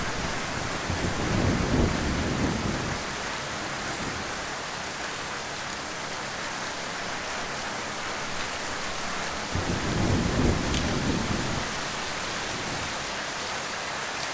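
Heavy rain falling as a steady, even hiss. Two low rumbles swell up under it, one about a second in and a longer one past the middle.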